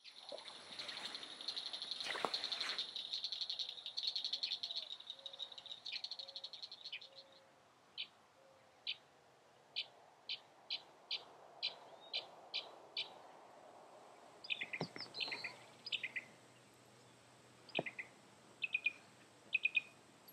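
A high insect trilling for the first several seconds, then a bird giving short, evenly spaced chirps, about one or two a second, with other varied bird calls joining in later.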